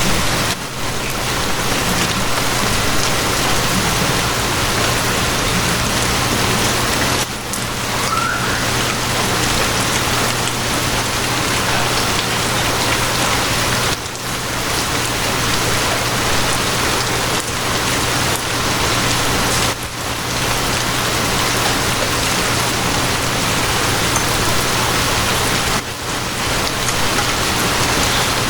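Steady heavy rain falling, an even hiss of drops on surfaces over a low steady hum, dipping briefly about every six seconds.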